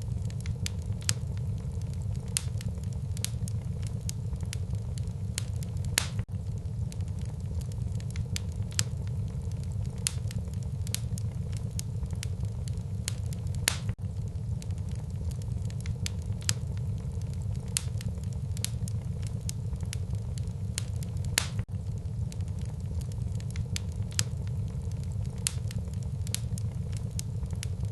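Wood fire burning in a fireplace: a steady low rumble of flames with frequent sharp crackles and pops, a few of them louder.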